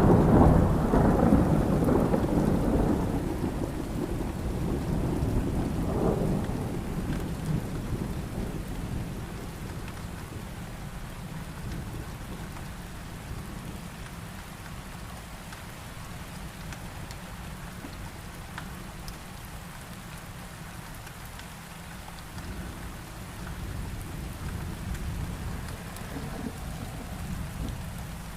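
Thunder rolling over heavy rain: a loud rumble at the start dies away over about eight seconds, with a smaller roll about six seconds in. Then comes steady rain, with a low rumble swelling slightly again near the end.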